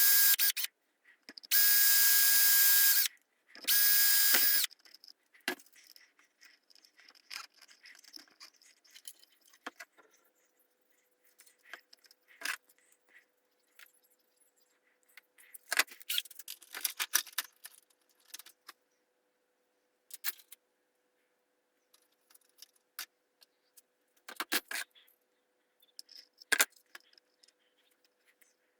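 Electric drill running in three short bursts in the first five seconds, followed by scattered clicks, taps and small metallic rattles of parts and hardware being handled, with the loudest clusters about halfway through and near the end.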